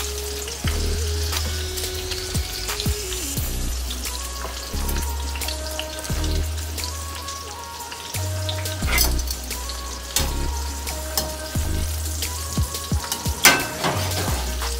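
Egg-and-flour-coated chicken breasts frying in oil in a stainless steel skillet, sizzling steadily. A few sharp clicks of metal tongs against the pan come through, the loudest near the end, over soft background music.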